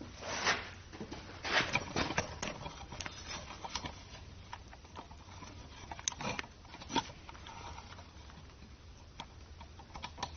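Irregular metal clinks and knocks of hand tools and engine parts being handled on a Ford 351 Windsor short block while the oil pump is being unbolted. The clinks come in clusters, busiest in the first few seconds and again about six to seven seconds in.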